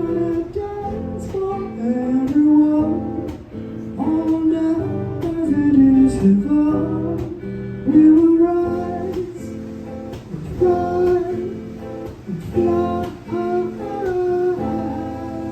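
Acoustic guitar strummed with a sung melody over it, held and sliding notes with no clear words, in a slow downtempo song. The music softens slightly near the end.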